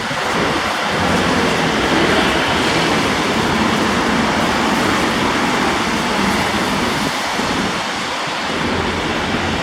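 Steady rushing street noise of passing road traffic.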